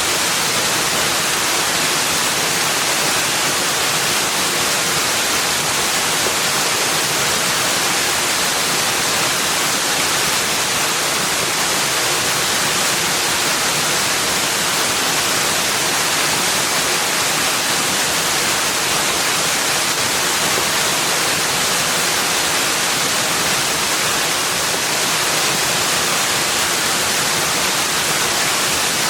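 Steady rushing water, an even unbroken hiss that never changes in level.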